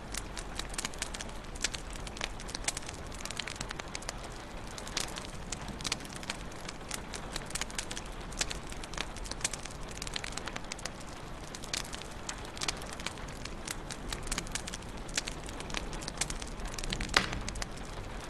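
Wood fire in a fireplace crackling steadily, with many small snaps and pops over a soft hiss. One louder pop comes about a second before the end.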